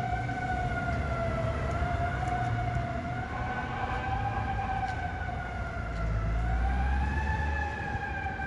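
Fire apparatus siren wailing, its pitch wavering slowly up and down, over a low engine rumble that swells about six seconds in.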